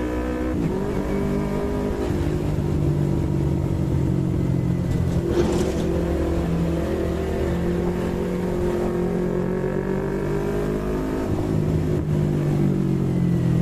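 Yamaha MT-25's 250 cc parallel-twin engine running at steady riding revs, with a sudden change in pitch just after the start and another near the end.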